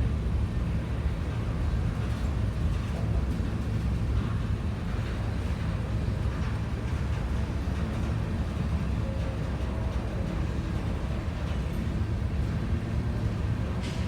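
CSX freight train of hopper cars rolling past, a steady low rumble.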